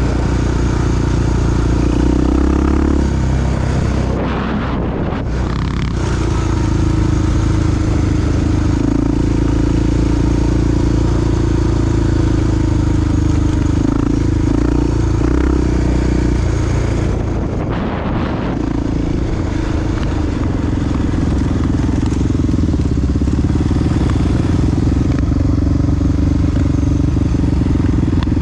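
Big single-cylinder four-stroke dual-sport motorcycle engine running steadily under way, its note dipping briefly twice, around four seconds in and again near eighteen seconds.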